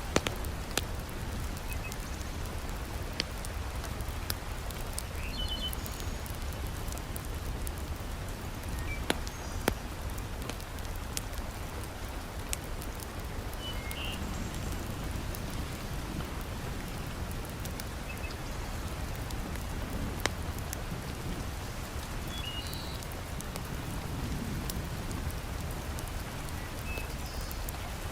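Heavy rain falling steadily, with a wood fire crackling in scattered sharp pops.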